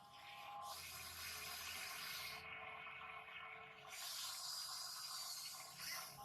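Remote-control toy excavator digging in wet soil: scraping and sloshing noise, with a faint steady whine of its small motor for the first few seconds.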